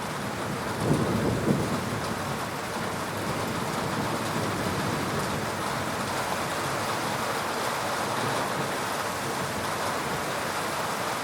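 Heavy rain falling steadily during a thunderstorm. A short low rumble comes twice about a second in.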